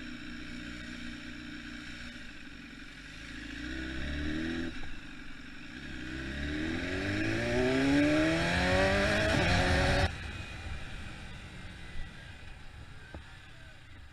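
Motorcycle engine accelerating hard, its pitch rising, a short break for a gear change, then rising again and growing louder. It cuts off suddenly about ten seconds in, leaving a quieter running sound with one sharp click.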